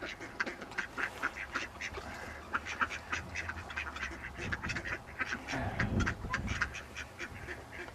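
A crowd of ducks quacking in quick, short calls, several a second, as they scramble for bread, with a brief low rumble about six seconds in.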